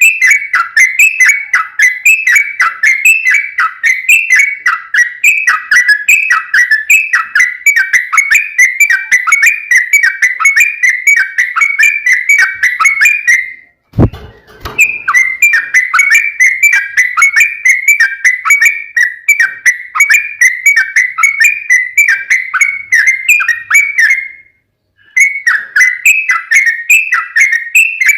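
Yellow-vented bulbul (trucukan) singing a long, fast run of bubbling whistled phrases repeated several times a second. The song breaks off about halfway with a single thump, and again briefly near the end.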